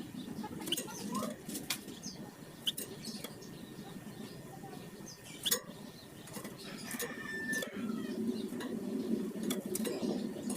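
A flamboyan songbird giving short, sharp chirps and clicks at irregular intervals, with a brief steady whistled note about seven seconds in, over a low background rumble.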